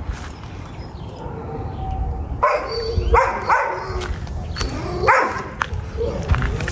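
A dog barking and yipping in short sharp calls, several in a row starting a couple of seconds in, over a steady low rumble.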